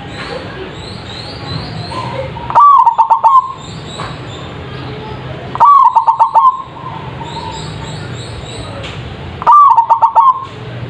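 Zebra dove (perkutut) singing its rapid, stuttering coo three times, each phrase about a second long, about three seconds apart and very loud. High-pitched chirping from small birds runs underneath.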